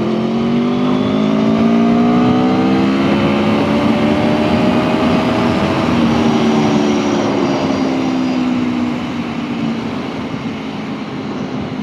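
Aprilia Tuono V4 1100's V4 engine pulling hard in third gear under full acceleration. The revs climb for about six seconds, then drop away as the throttle closes and settle to a steady cruise, with a rush of wind noise throughout.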